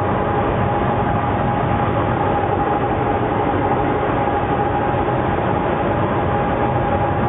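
Steady running noise of a DF11G diesel locomotive heard inside its cab, with a steady high tone held throughout.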